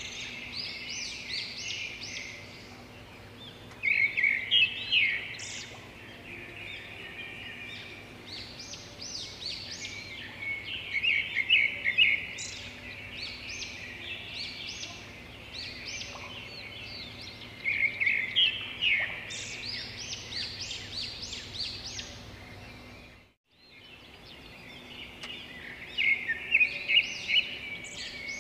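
Birds chirping and twittering in busy bouts of rapid high calls. The sound cuts out for a moment about three-quarters of the way through, then resumes.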